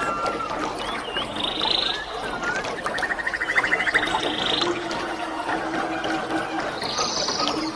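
Steady rush of a waterfall, with repeated animal calls over it: short chirps, buzzy notes and a fast pulsing trill.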